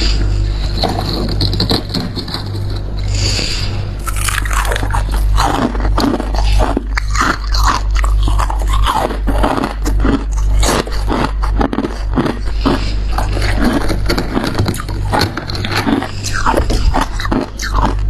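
Freezer frost being bitten and crunched close to the microphone: from about four seconds in, a dense run of irregular crisp crunches, with scraping before it. A steady low hum runs underneath.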